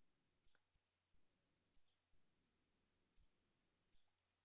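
Near silence, with a few faint, scattered computer mouse clicks.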